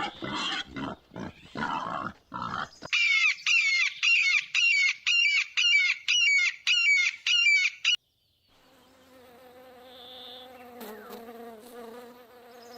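Pig grunting for the first few seconds. Then a run of loud, high chirps, about two a second for some five seconds, cut off abruptly. After a moment's silence, a low droning tone slowly grows louder.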